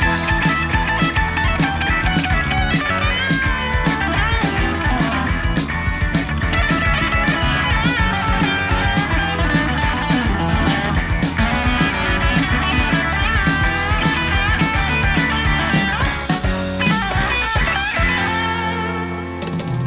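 Instrumental rock music: an electric guitar plays bending lead lines over bass and a steady drum beat. Near the end the drums drop out and a chord rings on.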